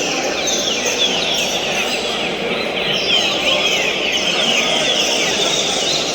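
Green-winged saltators (trinca-ferro) singing, their quick whistled phrases overlapping one another, over a steady low background noise.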